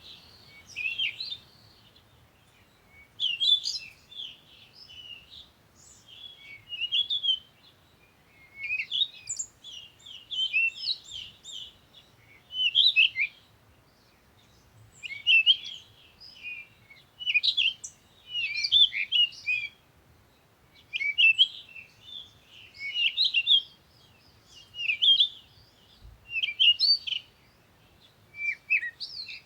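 Songbirds chirping and twittering in short, quick phrases, a new burst about every one to two seconds.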